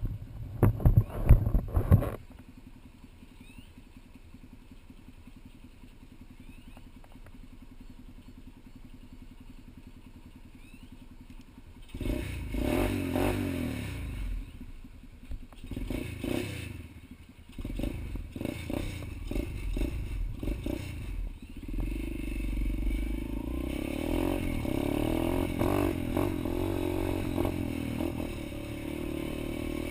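Pit bike engine: after a couple of seconds of clattering and a quiet stretch, it runs unevenly with repeated surges of revs about twelve seconds in, then settles into a steadier drone.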